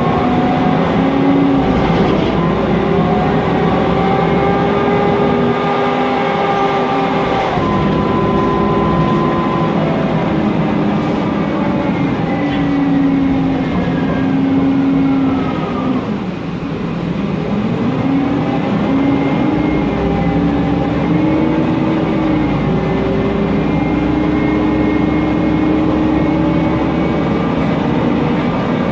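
Inside a Mercedes-Benz Conecto NGT city bus on the move: its M936G CNG engine and Voith DIWA automatic gearbox whining, the tones gliding up and down with road speed over a steady loud cooling-fan noise. About halfway through the whine falls away and the sound briefly dips, then rises again as the bus picks up speed.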